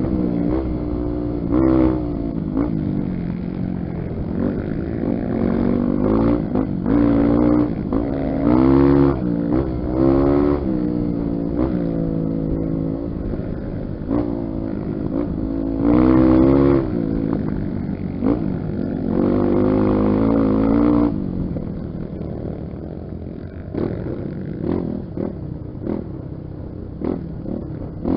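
Honda XR Tornado single-cylinder four-stroke trail motorcycle engine, revving up and down in repeated throttle bursts while riding off-road. About three-quarters of the way through it settles to a lower, quieter running note with scattered knocks.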